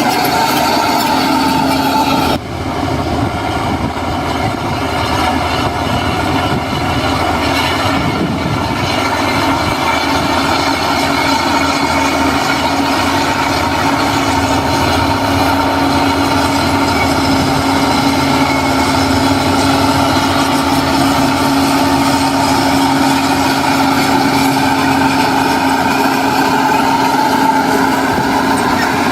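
Heavy diesel construction machinery running steadily under load, with an abrupt change in the sound about two seconds in.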